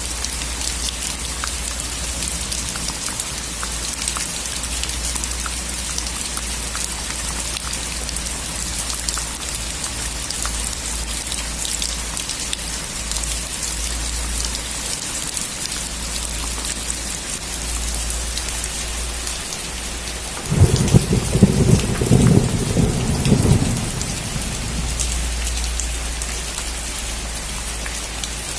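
Steady rain falling, with dense drops pattering on a surface. About twenty seconds in, a peal of thunder rumbles for roughly three seconds, louder than the rain, then fades back into it.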